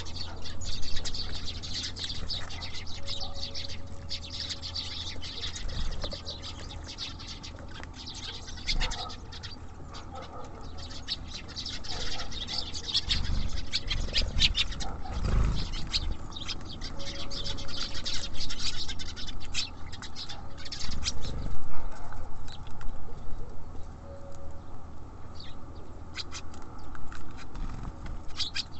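Small songbirds chirping and twittering in quick, dense bursts at a bird feeder, the calls thinning out near the end. Scattered sharp taps and a few low thumps about halfway through.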